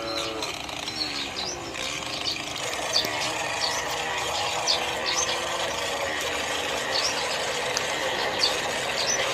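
A small geared motor of a miniature toy vehicle running steadily with a rasping, ratchety whirr, as the vehicle is tried in reverse without managing to back up.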